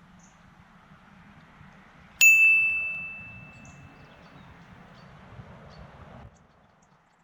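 A single bright metallic ding about two seconds in, ringing on one clear tone and fading away over about two seconds, over a steady outdoor background hiss that cuts off suddenly near the end.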